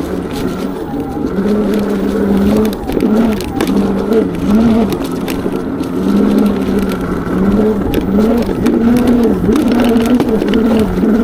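Valtinsu EM22 electric dirt bike's motor whining as it is ridden off-road, its pitch dipping and climbing again and again as the throttle comes off and on, over rough noise and scattered knocks.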